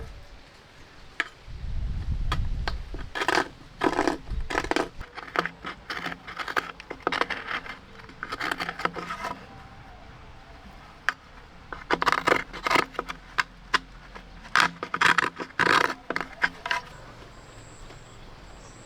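Repeated scraping and scratching strokes in several short runs, with brief pauses between them.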